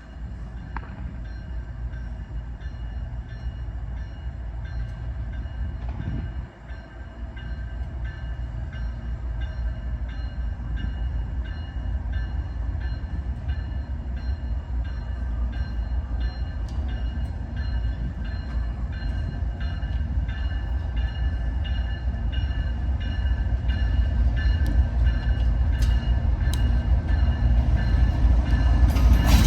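Approaching diesel freight train led by a GE ES44AC locomotive: a low rumble that grows steadily louder, with a steady high tone over it and regular clicking in the second half.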